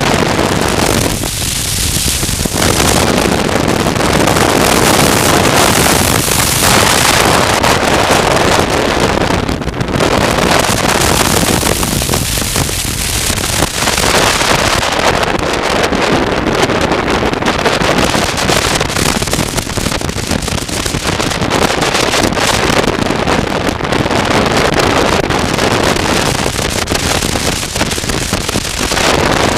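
Heavy wind buffeting on the microphone of a moving motorcycle, with vehicle running noise underneath, swelling and easing every few seconds.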